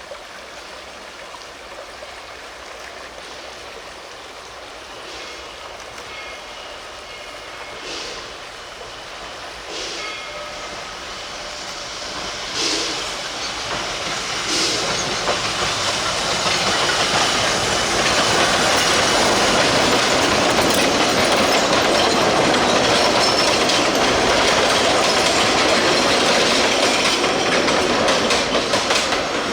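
A narrow-gauge steam train approaching and running by. Its noise builds over about fifteen seconds, then stays steady and loud, with the wheels clicking over the rail joints.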